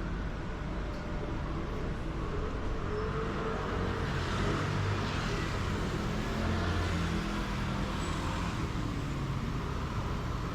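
Street traffic: a motor vehicle running on a city street, getting louder about four seconds in and easing off again near the end.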